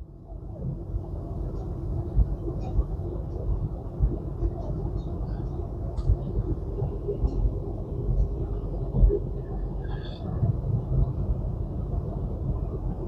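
Semi-truck's low, steady rumble of engine and road noise while driving down a mountain grade, coming up about half a second in and holding steady.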